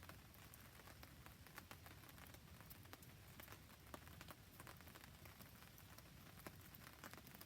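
Faint rain and a crackling campfire: a steady hiss of rain with many small, sharp pops and ticks scattered through it.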